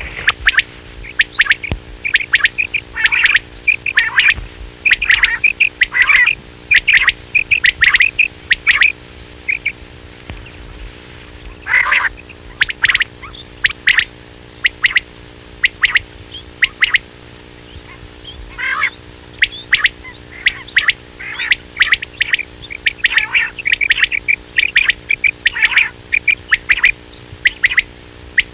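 Recorded quail calls used as a hunting lure: bursts of short, sharp, high calls repeated in quick clusters, with two pauses of a couple of seconds, about a third of the way in and past the middle. A steady low hum runs underneath.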